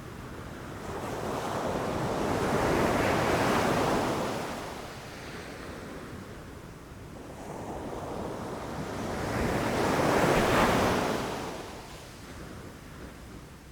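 Ocean waves rushing in and crashing: two surges, each swelling over a few seconds and then fading, the first peaking about three seconds in and the second about ten seconds in.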